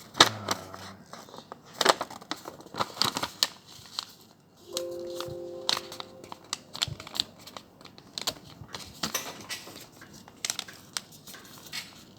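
Paper crinkling and rustling with many sharp clicks, and a short steady tone about five seconds in.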